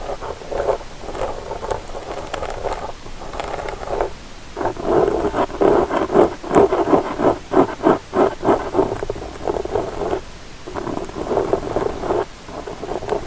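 Ear-cleaning sounds on a binaural ASMR microphone: an ear pick or cotton swab scratching and rubbing close against the mic, in runs of quick strokes with short pauses. The strokes come fastest and loudest in the middle.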